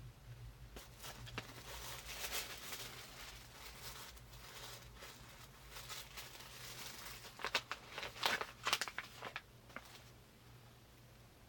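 Packaging being handled and unwrapped by hand: irregular crinkling and tearing, with a burst of sharper crackles near the end.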